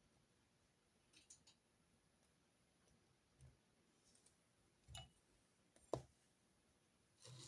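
Scattered clicks and soft knocks from pens and stationery being handled on a desk during note-taking. There are a few small clicks about a second in, soft knocks around the middle, a sharp click about six seconds in, and another knock near the end.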